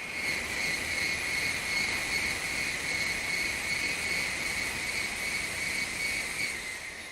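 Train passing the trackside camera: a rush of wheel-on-rail noise swells and fades, carrying a steady high-pitched whine that drops slightly in pitch near the end as the train goes by.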